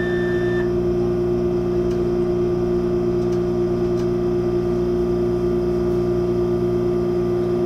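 Steady electrical hum inside the cabin of an MTR Airport Express CAF train, one strong tone over several lower ones, unchanging throughout. A short high tone sounds for about half a second at the start.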